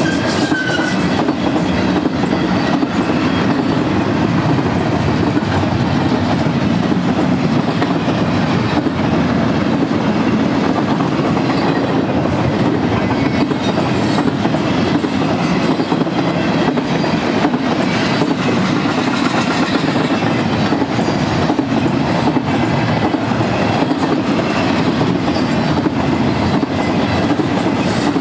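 Double-stack intermodal train's loaded well cars rolling past on steel rail: a steady rolling rumble of wheels on track with faint clicks from the wheels.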